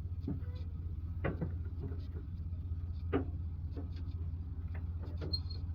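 Scattered light clicks and knocks over a steady low hum, as the operator settles in and works the controls of a 1988 Bobcat 843 skid loader just before cranking it cold.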